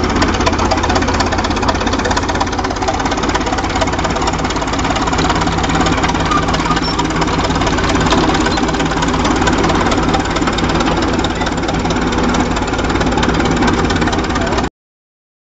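Holt crawler tractor's engine running steadily with a rapid, knocking firing beat while pulling under load.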